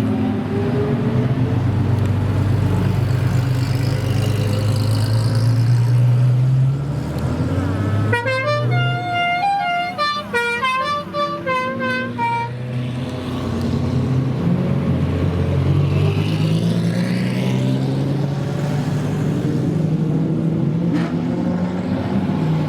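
Several Lamborghini supercar engines running and revving, their pitch rising and falling. About eight seconds in, a car horn plays a short tune of stepped notes for about four seconds.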